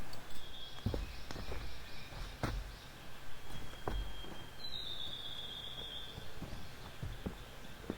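Irregular light knocks and clicks, as of gear being handled at a campsite, with a thin high bird call about halfway through.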